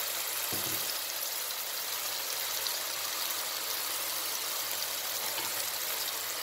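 Chopped tomato and onion frying in oil in an aluminium pot: a steady sizzling hiss.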